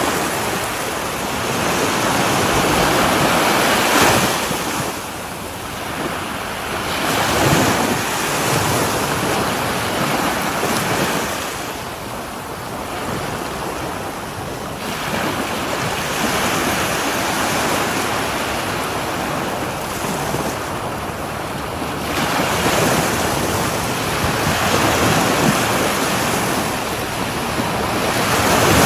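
Ocean waves breaking and washing up a shore, the surf rising and falling in swells every few seconds.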